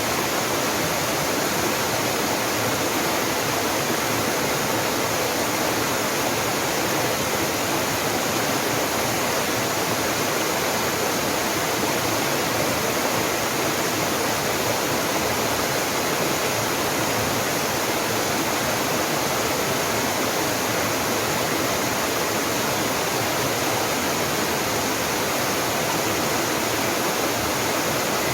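Jangsan Falls, a mountain waterfall, rushing steadily without a break.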